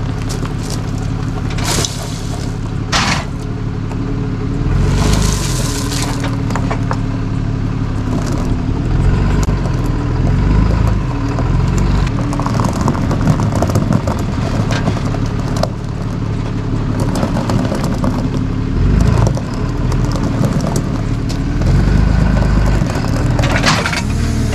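Tow truck engine running as it is driven slowly, its pitch rising and falling as the throttle comes on and off, with a few short hissing or scraping noises.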